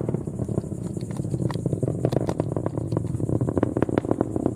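Distant rocket launch rumble, a steady low roar shot through with irregular crackling from the ascending rocket's engines.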